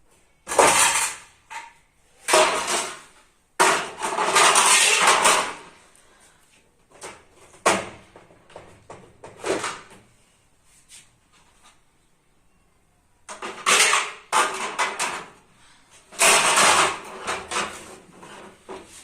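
Fridge being emptied: drawers sliding and dishes and containers being handled, heard as several bursts of sliding and clattering a second or two long with sharp clicks between, and a quiet stretch in the middle.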